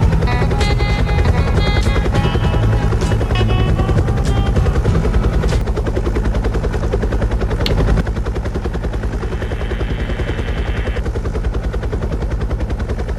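Helicopter rotor chopping steadily, a fast even beat, with music playing over it for the first few seconds.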